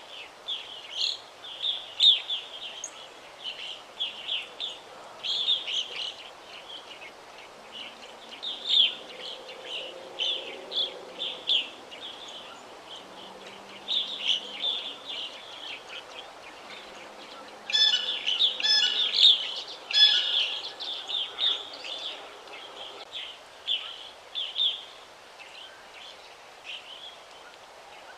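Several songbirds chirping and singing in a forest chorus of short repeated high notes, with a louder, busier burst of calls about two thirds of the way through, over a faint background hum.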